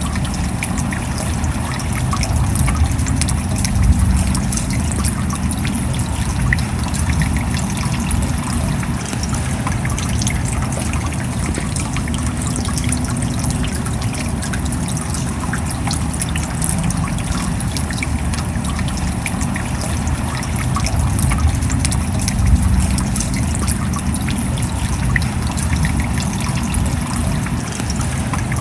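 Steady rain falling, with a dense scatter of small drop hits over a constant hiss and a low rumble underneath.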